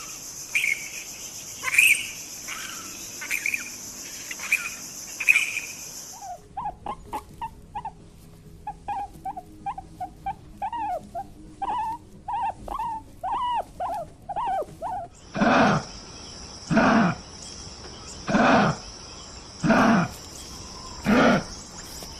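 Animal calls from three different animals in turn. First short chirps over a steady high hiss. About six seconds in comes a quick run of short, high, pitched calls. From about fifteen seconds in come loud calls repeated about every second and a half.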